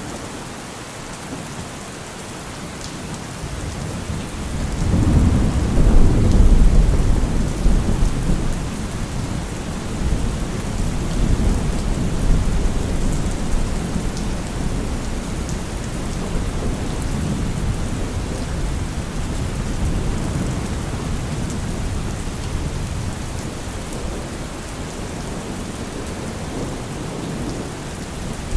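Steady rain with a long roll of thunder. The thunder swells about four seconds in, is loudest a couple of seconds later, then rumbles on and slowly fades under the rain.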